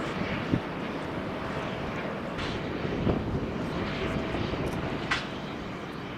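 Airliner jet engines making a steady rushing noise, with a few faint knocks on top.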